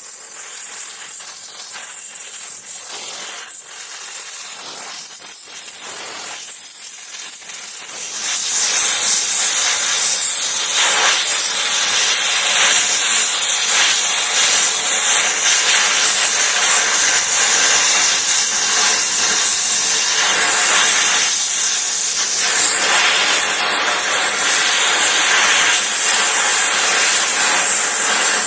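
Gas welding torch flame hissing steadily while puddle welding a cast iron exhaust manifold; about eight seconds in the hiss jumps louder and brighter and then holds.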